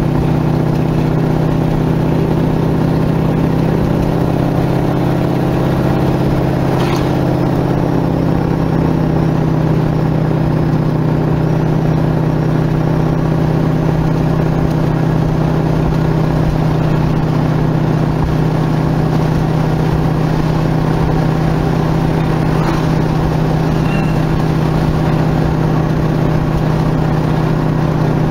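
Dodge Charger cruising at a steady speed, its engine running with an even drone over wind and road rumble.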